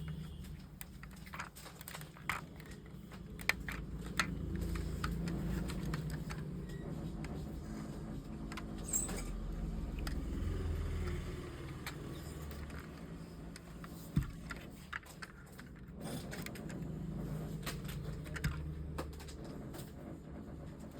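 Scattered light clicks and small rattles from a diecast model car being handled, over a low rumble of handling noise.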